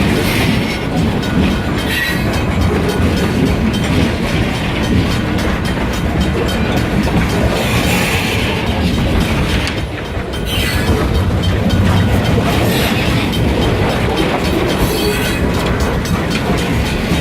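Freight train cars rolling past with a steady rumble and wheels clacking over the rail joints.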